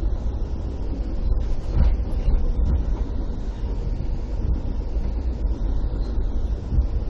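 Steady low rumble of a moving Amtrak passenger train, heard from inside the coach.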